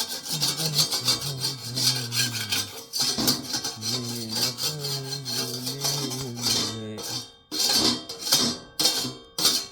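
Rapid rasping, scraping strokes that slow near the end into a handful of separate, spaced strokes, under a low voice humming a slow tune.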